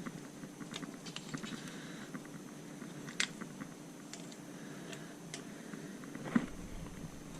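Hand tools clicking and tapping against metal parts while bolts on the mud motor kit are snugged up. The clicks come scattered, with a sharper click about three seconds in and the loudest knock a little after six seconds.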